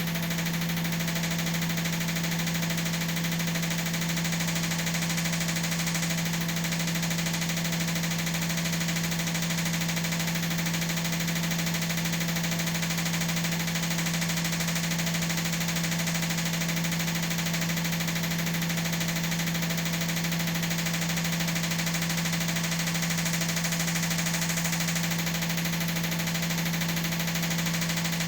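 Washing machine running with a steady, unchanging hum: one strong low tone over a constant machine whir.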